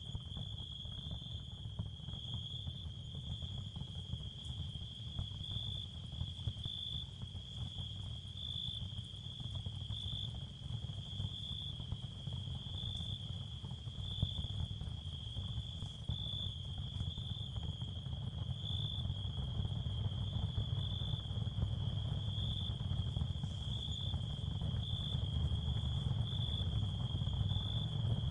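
Ambient sound field for tinnitus masking: a steady high cricket trill that swells about once a second, over a low steady noise.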